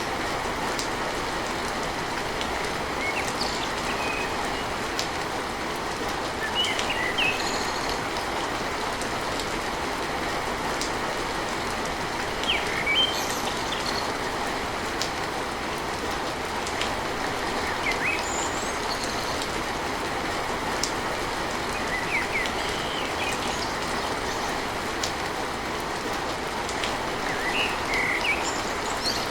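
Steady heavy rain drumming on a tin roof, with short high-pitched chirps or pings breaking through every few seconds.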